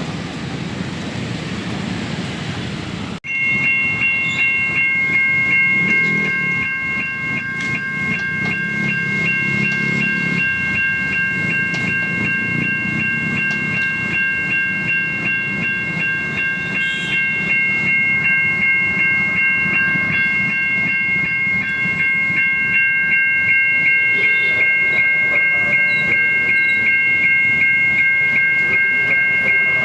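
Electronic warning bell of a Siemens railway level-crossing signal, a steady high multi-tone ringing repeated in quick strokes. It cuts in abruptly about three seconds in over low street traffic noise.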